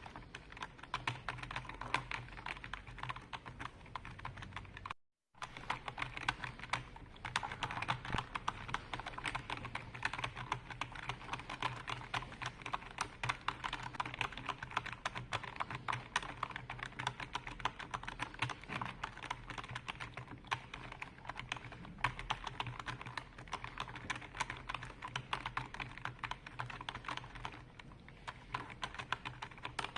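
Continuous fast typing on a computer keyboard: dense, rapid keystroke clicks over a low steady hum. The sound cuts out completely for a split second about five seconds in.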